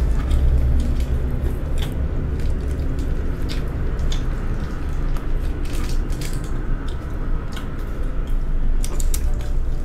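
Close chewing of crispy fried chicken, with scattered crunches and crackles and the crinkle of a small paper pepper sachet being handled.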